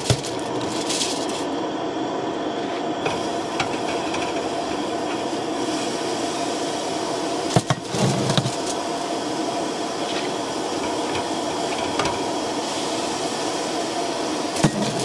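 Burger patties sizzling steadily in a frying pan on a camp stove. A few spatula clicks and a short knock come about eight seconds in.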